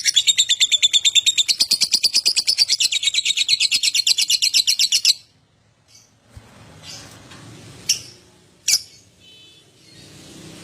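Lovebird singing its ngekek song: a loud, rapid, unbroken chattering trill that cuts off suddenly about five seconds in. After a short lull come a couple of single sharp chirps.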